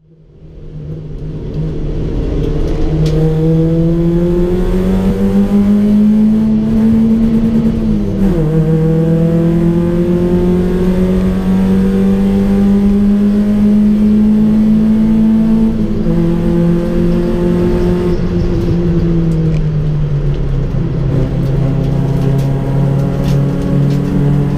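Hyundai Excel race car's four-cylinder engine heard from inside the cabin, fading in at the start and climbing in pitch under hard acceleration. The pitch drops sharply at an upshift about eight seconds in and climbs again. From about sixteen seconds the revs fall away in steps and then hold steady.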